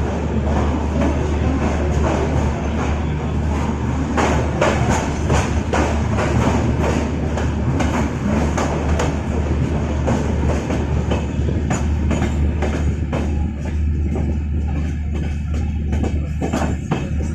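Passenger train running, heard from on board a coach: a steady rumble with quick clicks from the wheels over the rails. In the last few seconds percussive music with a tambourine-like jingle comes in over it.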